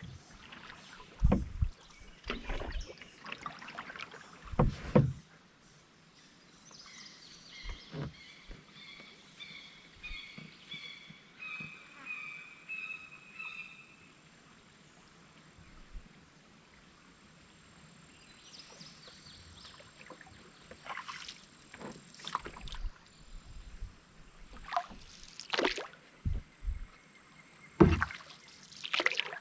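Canoe paddling: irregular paddle splashes and dull knocks of the paddle against the hull. A bird sings a run of short chirps for several seconds in the middle.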